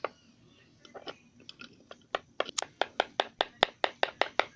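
Small hard objects being handled: a few scattered clicks, then a regular run of sharp clicks, about five a second, through the second half.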